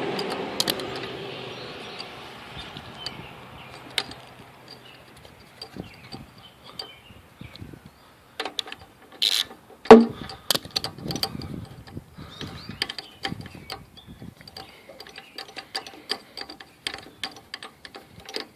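Ratchet wrench clicking in irregular runs as bolts are backed out of a lawn mower engine, with a sharp metal knock about ten seconds in. A hiss fades away over the first few seconds.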